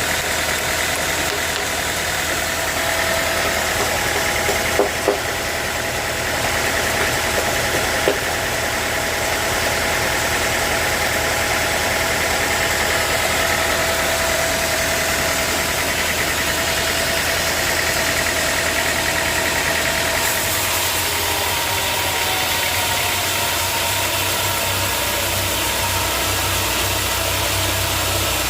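Sawmill machinery running steadily, with a few sharp knocks about five and eight seconds in, and a shift in its sound about two-thirds of the way through.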